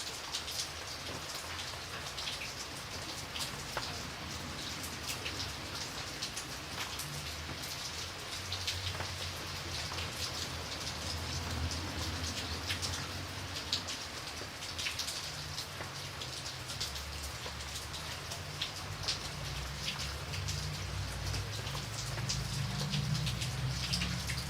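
Steady rain falling, with many separate sharp drop hits close by. A low rumble builds in the second half.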